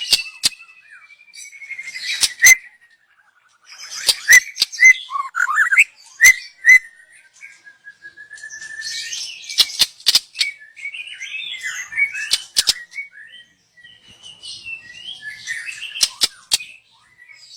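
Young white-rumped shama singing: varied whistled phrases, some gliding slowly down in pitch, mixed with quick chirps and a scatter of sharp clicking notes, broken by short pauses.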